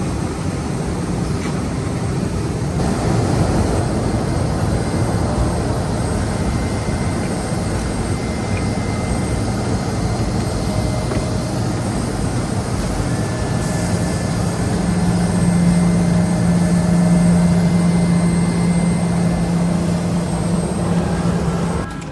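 Steady aircraft noise on an airport apron, the drone of jet engines and auxiliary power units, with a low steady hum joining about two-thirds of the way in.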